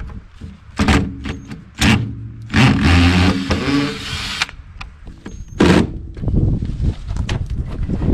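Hands-on work on the RV: several sharp knocks and clunks, with a scraping, rattling stretch of about two seconds in the middle and smaller clicks near the end.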